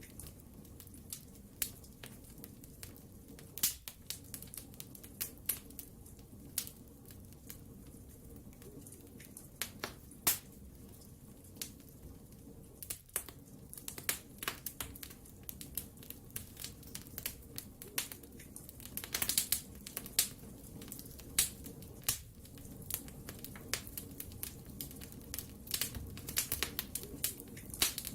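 Wood fire crackling: irregular sharp pops and snaps over a low, steady rumble of the flames, with a quicker run of crackles about two-thirds of the way through.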